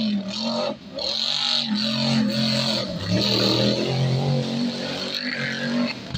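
Off-road rally car engine running hard under load, its pitch dropping briefly and climbing back several times, over a steady noisy rush.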